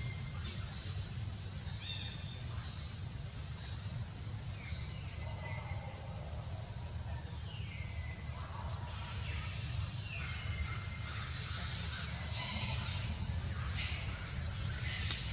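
Scattered bird calls, a few of them short falling whistles, over a steady low rumble.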